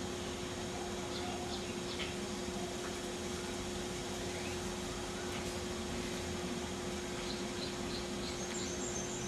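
Faint, short, high bird chirps, a few about a second in and a quick series near the end, over steady background hiss and a low steady hum.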